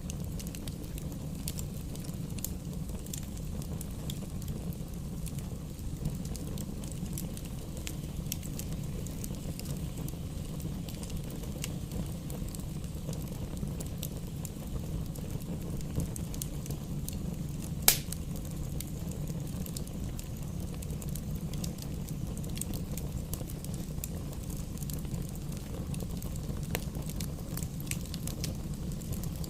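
Campfire burning, with scattered crackles and small pops over a steady low rumble, and one sharp, loud pop about eighteen seconds in.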